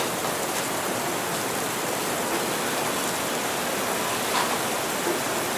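Steady rain hiss, as in a rainy café ambience, with a faint short tap about four seconds in.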